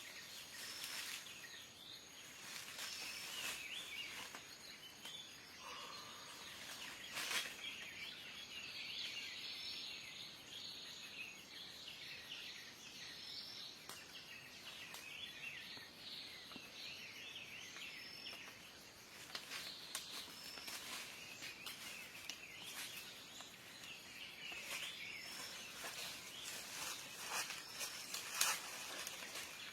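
Outdoor ambience of many small birds chirping and twittering, with insects buzzing faintly and a thin high note that repeats. A few sharp clicks stand out, the loudest at about 7 seconds and near the end.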